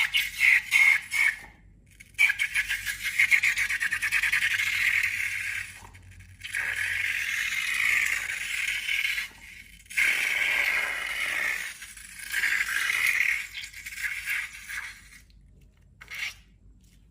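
Slime being worked by hand, giving crackly, sticky squishing in bursts of one to three seconds with short pauses between.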